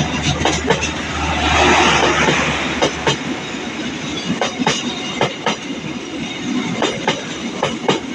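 A train rolling through the station at close range, its wheels clacking irregularly over rail joints, with a louder rush of running noise about one to three seconds in.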